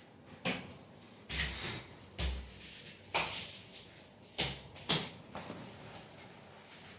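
A series of about six sharp knocks and clunks, roughly a second apart, some with a dull low thud.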